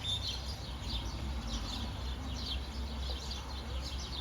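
Birds chirping in quick repeated calls over a low steady rumble.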